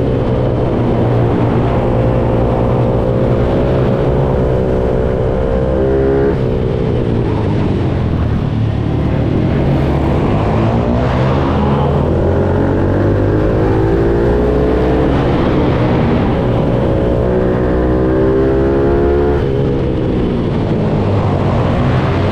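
Pitbike's single-cylinder four-stroke engine revving hard as it laps, its pitch climbing and dropping again and again as it accelerates out of corners and shuts off for the next.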